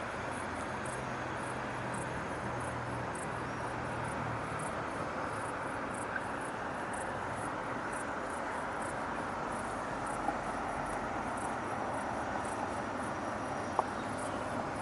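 Steady distant city traffic noise, with crickets chirping high and evenly, about two to three chirps a second. A low hum of a passing vehicle sits under it for the first few seconds.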